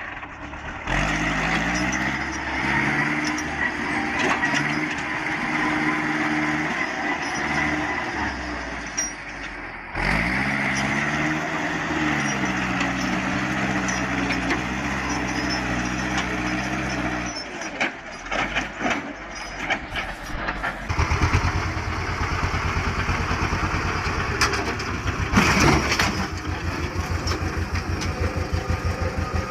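Vehicle engines running across several cuts. First comes an engine whose pitch rises and falls as it works, twice, with a break between. Then, about two-thirds of the way in, an engine idles with an even, rapid knock.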